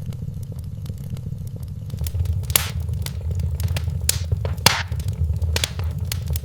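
Wood fire crackling in a fireplace: scattered sharp pops and snaps over a steady low rumble of the flames. The pops grow louder and more frequent about two seconds in.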